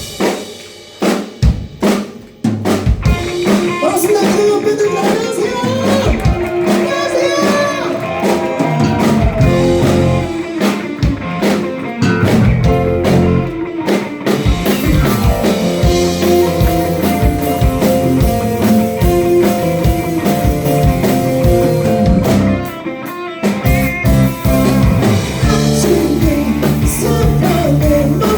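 Live band music: a few drum hits open, then the full band with drum kit and electric guitar plays, with a voice singing. There is a brief break about two-thirds through before the band comes back in.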